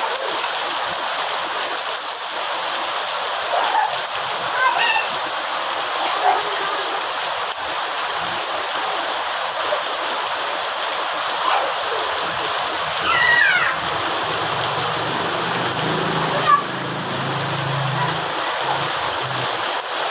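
Rain pouring steadily. A few short high-pitched calls rise and fall over it, the clearest about five and thirteen seconds in.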